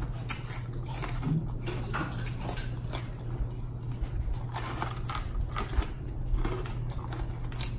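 Close-up chewing and wet mouth noises with crackly clicks, over the steady low hum of an overhead fan.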